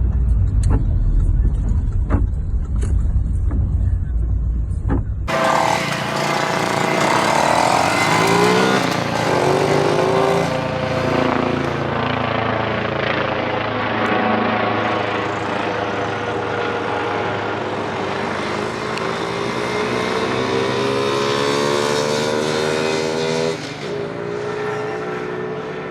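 Derestricted 50cc Skyteam monkey bike engine, fitted with a wider intake manifold, an open air filter and a remapped ECU, pulling away and revving out through the gears, its pitch climbing in long sweeps and dropping at each shift. The first few seconds hold a heavy low rumble with clicks, and the engine gets quieter near the end.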